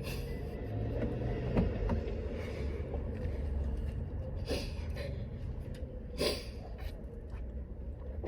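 Steady low rumble inside a small car's cabin, with a few brief knocks and rustles of handling.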